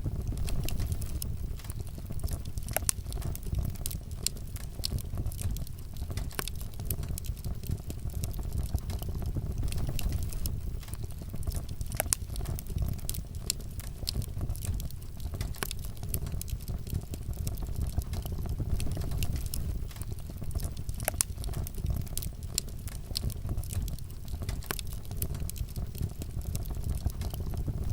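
Wood fire crackling: a steady low rumble of burning flames with irregular sharp pops and snaps, a few of them louder.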